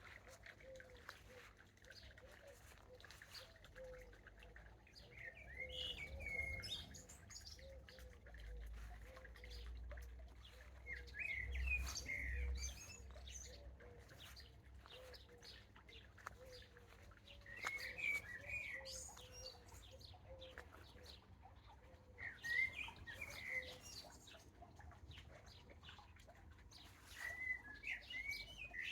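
Songbird singing short chirpy phrases, five of them spaced about five seconds apart, with a faint run of low repeated notes underneath through the first half.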